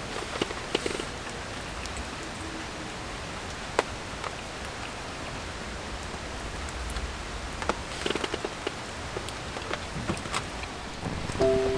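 Steady rain falling, with scattered sharp taps of single drops, one louder tap about four seconds in. Music with held tones begins just at the end.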